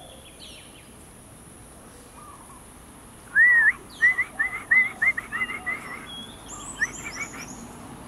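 A songbird singing a quick run of short, hooked notes, about three a second, starting a little past three seconds in. A few higher chirps follow near the end.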